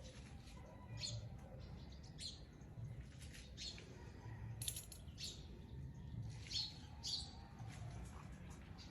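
Small birds chirping: short high chirps repeating irregularly, several a second at times, over a faint low rumble.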